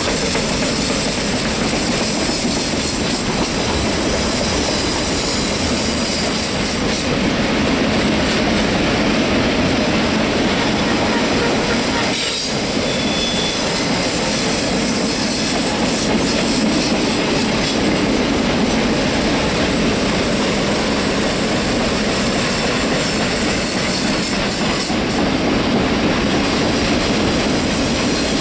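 Norfolk Southern RoadRailer train rolling steadily past on a tight curve: a continuous clatter of the trailers' rail wheels, with wheel squeal from the curve.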